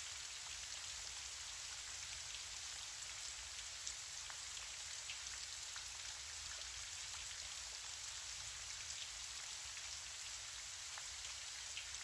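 Gentle steady rain: an even soft hiss with scattered faint taps of single drops.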